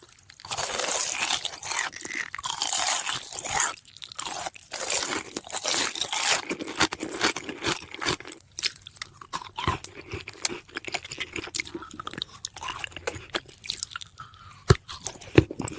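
Close, crisp crunching: a dense run of crackle for the first few seconds, then many short separate crunches with small pauses between them.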